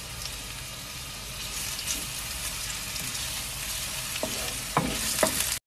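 Sliced ginger and garlic cloves sizzling in hot olive oil in a nonstick wok, a steady frying hiss. Near the end a wooden spoon stirs them with a few knocks against the pan, and the sound cuts off suddenly.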